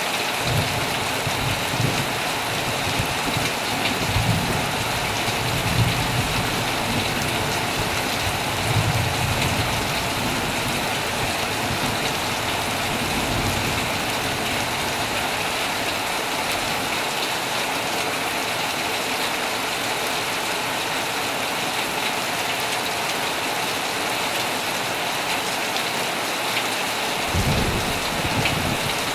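Heavy rain falling steadily on a tent, a dense even hiss. Low rumbles of thunder swell several times in the first ten seconds or so, and once more near the end.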